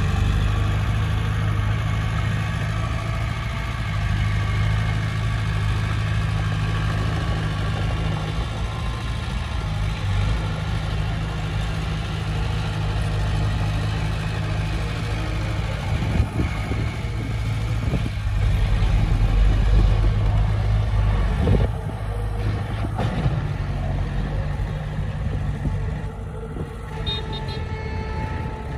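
Heavy diesel engine of earthmoving machinery running steadily, getting louder for a few seconds past the middle, with a few sharp knocks and clanks in the second half.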